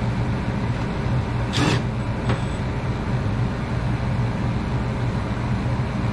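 Goodman gas furnace running steadily with a low hum, back to normal operation after its control board was reset. A brief rushing burst about one and a half seconds in, then a single click.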